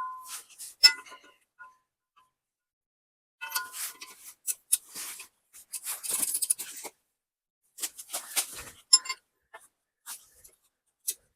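Wrench and socket clinking and clicking on the steel tooth bolts of a stump grinder's cutter wheel as the teeth are torqued down: scattered sharp metallic clinks, some with a short ring, in irregular clusters separated by brief silences.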